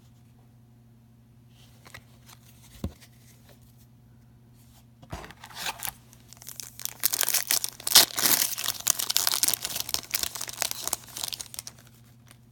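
A foil hockey card pack wrapper being torn open and crinkled. It starts about five seconds in and runs for several seconds, loudest near the middle, with a couple of small clicks before it.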